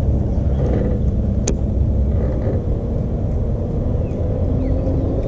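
Electric trolling motor of a bass boat running steadily: a low rumble with a faint hum that creeps slightly higher in pitch near the end. A single sharp click about one and a half seconds in.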